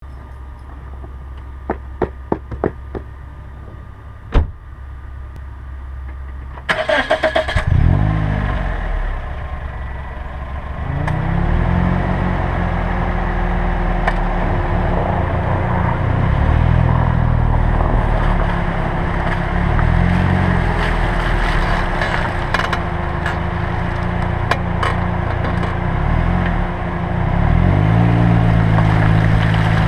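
A few sharp clicks, then a 2007 Pontiac Vibe/Toyota Matrix engine cranks and starts about seven seconds in. It then runs with its engine speed rising and falling several times as the car pulls away and drives.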